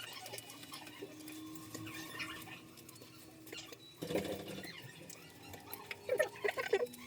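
Irregular small clicks, taps and squeaky scrapes, with a louder cluster about four seconds in and a busier stretch near the end.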